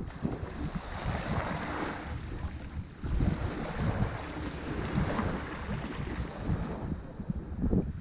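Ocean waves breaking and washing up on a shore, rising and falling in surges, with wind buffeting the microphone.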